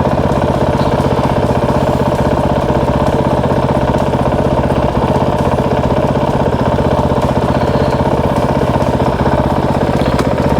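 Motorcycle engine idling steadily, its firing pulses even and unchanging.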